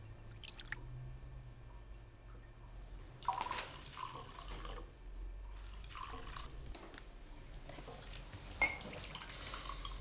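Water splashing and dripping in short, irregular bursts, with a light click near the end and a faint low hum underneath.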